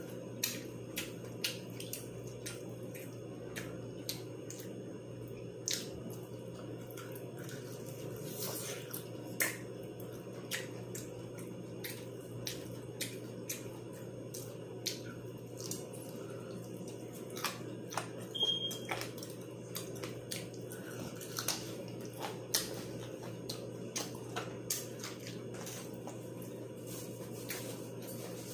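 Close-miked eating of crispy fried chicken wings: irregular wet mouth clicks and smacks of chewing, over a steady low hum. A brief high tone sounds about two-thirds of the way through.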